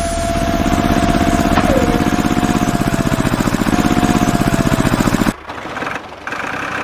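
RC tractor engine sound, running steadily with fast even pulses and a thin whine above it. It cuts off abruptly about five seconds in, and a quieter, choppier sound follows.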